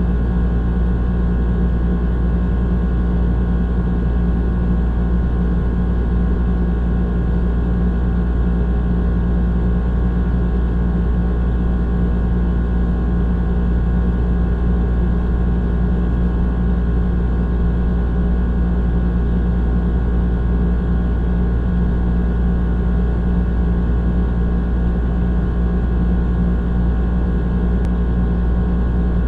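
Old air conditioner running steadily: a constant low hum over a deeper rumble, unchanging in pitch and level.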